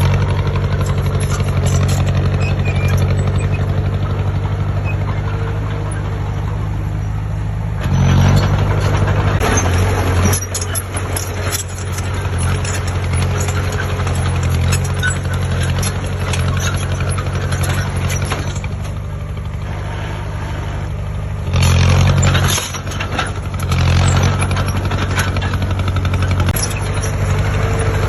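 Heavy diesel engine of earthmoving machinery running steadily, briefly rising in load or revs about eight seconds in and again near twenty-two seconds.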